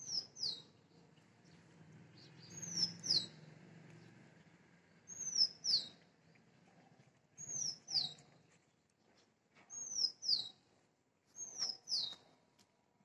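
A bird calling over and over: pairs of short, high notes that fall in pitch, a pair about every two and a half seconds.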